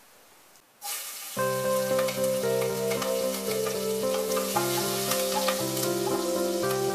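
Green chillies and tempering seeds sizzling in hot oil in a pressure cooker, stirred with a wooden spatula; the sizzle starts suddenly about a second in. Background music with sustained notes comes in just after and runs under it.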